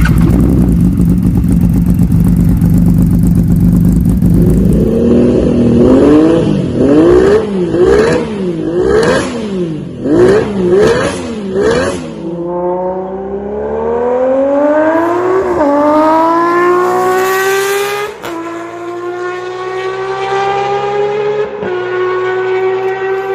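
Honda CBX1000's 1047 cc inline-six engine idling, then revved in a run of quick blips about once a second. It then accelerates hard, the pitch climbing steadily and dropping at each gear change, three times.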